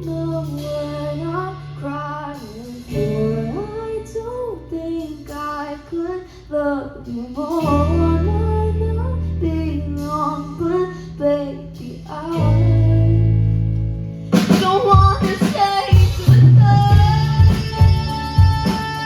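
A female voice singing a melody over guitar and held low notes. About fourteen seconds in, the singing gives way to a louder guitar passage of rhythmic strummed strokes.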